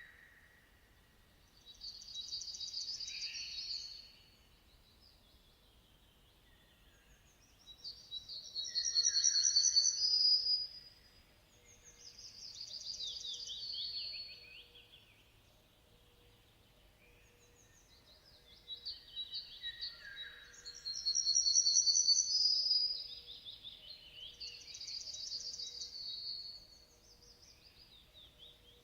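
A songbird singing: about six high, bright phrases, each two to three seconds long with short pauses between, several sliding down in pitch at the end.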